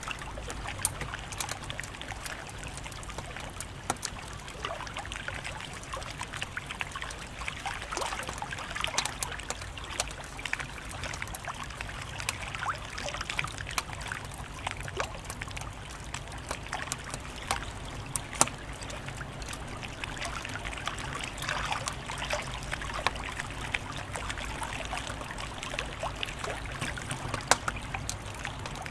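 Wood fire crackling, with irregular snaps and pops over a steady hiss.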